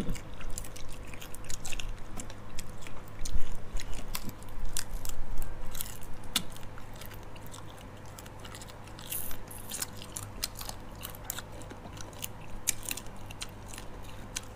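Chewing and crunching of cooked giant water bugs, with crisp clicks and crackles as the shells and legs are picked apart. Louder for the first several seconds, then fainter and sparser.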